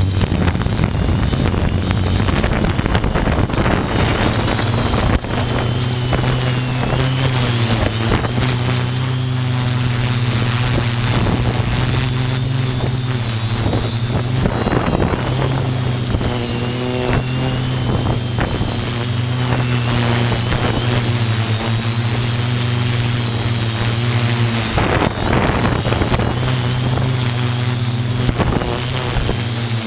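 Multirotor drone's motors and propellers running with a steady hum and a thin high whine, the pitch shifting slightly now and then. Gusty wind buffets the microphone over it.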